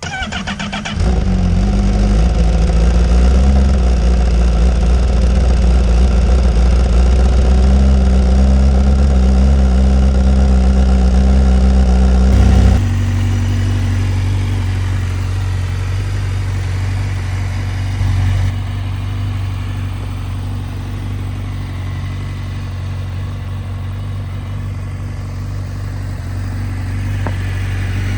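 Honda CBR1000RR-R SP's inline-four engine cranked on the starter for about a second, catching on a cold start and then idling high and steady. About twelve seconds in the sound becomes quieter and stays steady.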